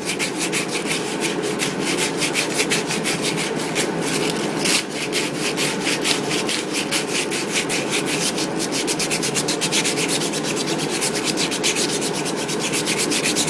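Extra-fine sandpaper rubbed rapidly back and forth on the steel shaft of a Briggs & Stratton electric starter, a steady scratchy rasp of quick even strokes, taking the surface rust off the shaft.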